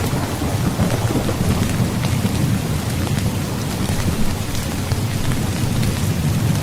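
Heavy rain falling steadily, with a continuous low thunder rumble underneath and scattered drops ticking on a surface.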